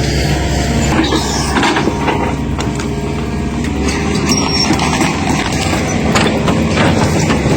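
Heavy machinery running, with many short knocks and cracks from about a second in.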